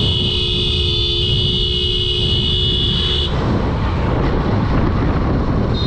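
A vehicle horn sounding one long steady blast of about three seconds, then again briefly near the end. Under it runs the steady engine and road-wind noise of a moving motorcycle.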